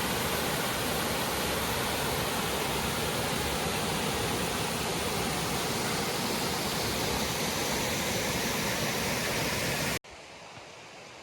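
Steady rush of running water. About ten seconds in it cuts off abruptly to a much quieter hiss.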